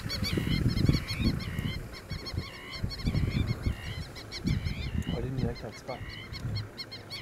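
Birds calling in a continuous chatter of short, repeated, up-and-down notes, several a second. Under it, irregular low rumbling gusts of wind buffet the microphone.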